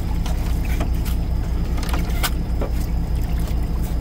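Fishing boat's engine running with a steady low drone, with a few sharp clicks and knocks over it.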